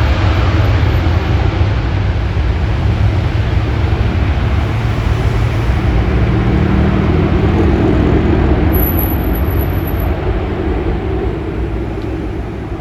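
Jet airliner engines passing close by, loud and steady with a deep rumble, starting to fade near the end.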